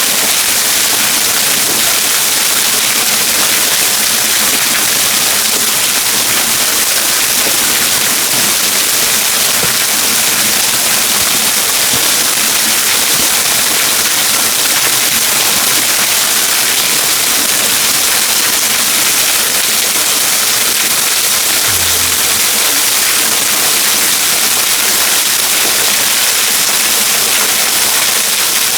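Waterfall rushing, a loud, steady hiss of falling water with no change in level.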